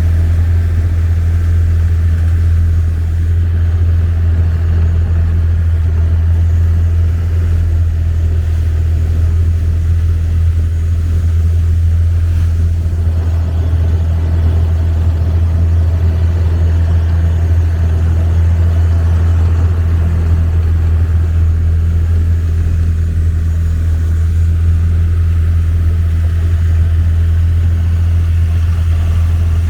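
Long-tail boat engine running at a steady speed: a loud, unchanging low drone with a noisy wash above it.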